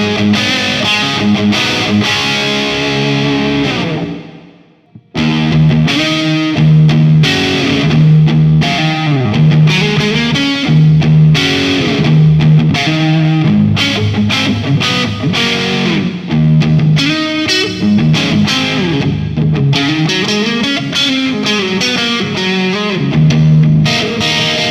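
Electric guitar played through a Marshall 8100 Valvestate amp, whose valve preamp drives a solid-state power section, with distortion. It plays riffs, stops for about a second around four seconds in, then starts again.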